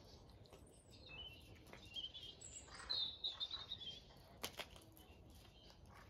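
Faint birdsong: small birds chirping, loudest in a quick run of chirps about halfway through, with a single sharp click shortly after.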